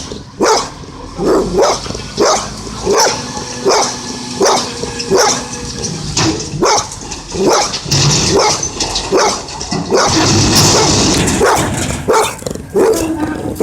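A dog barking over and over in a steady rhythm, about three barks every two seconds. A rushing hiss lasts about two seconds near the end.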